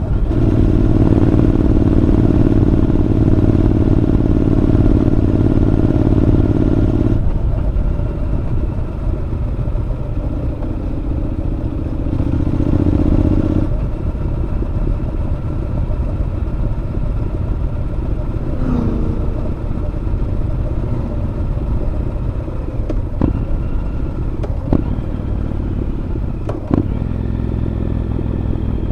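Honda NC750X parallel-twin engine breathing through a Moriwaki aftermarket muffler while riding. The note is strong and steady under throttle, drops about a third of the way in, swells again briefly, then runs lighter, with three sharp clicks near the end.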